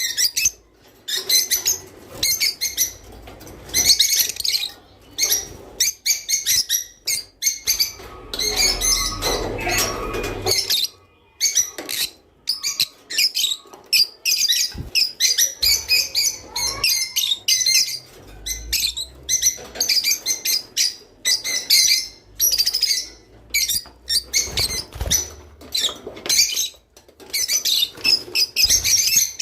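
A group of lovebirds chirping and chattering in quick, shrill, overlapping calls without a break. About a third of the way in there is a short stretch of lower rustling, like fluttering wings, under the calls.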